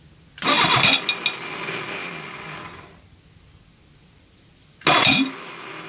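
Reliant Fox engine on a starter motor making a first start attempt after years unused. It cranks in two short, loud bursts, about half a second in and again near the end, and the first burst fades away over about two seconds.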